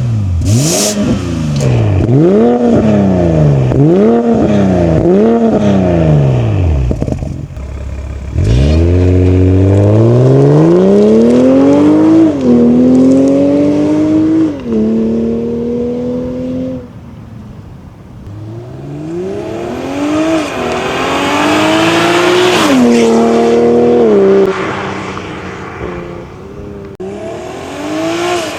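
BMW 540i's turbocharged B58 inline-six through an aftermarket catback exhaust with a 3-inch single midpipe: first blipped about five times in quick succession, then accelerating hard through the gears with each upshift dropping the pitch. It eases off briefly midway, pulls hard again, and starts another pull near the end.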